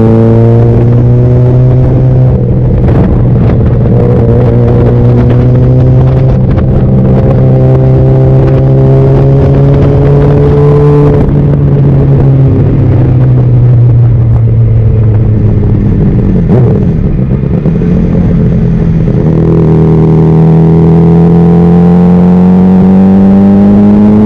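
Honda CBR600RR's inline-four engine pulling under way: its pitch climbs slowly, drops sharply twice as the revs fall, then climbs steadily again near the end. A rush of wind noise rides over it during the first half.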